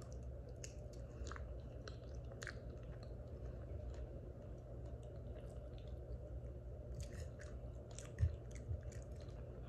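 Close-up chewing of a soft, saucy mouthful of alfredo-covered loaded potato, with scattered small wet mouth clicks over a steady low hum. A brief low thump comes about eight seconds in.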